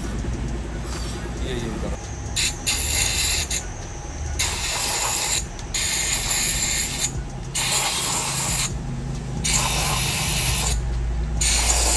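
Ratchet wrench being worked in repeated short runs of fast clicking on a Benelli 600i's engine, as the spark plugs are being taken out.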